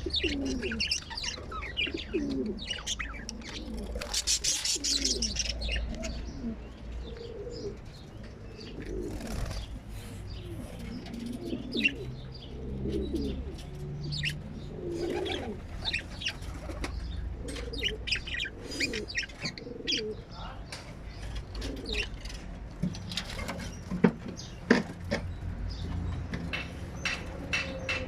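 Small parrots chirping in short, sharp calls, with repeated low cooing and a brief burst of wing flapping about four seconds in.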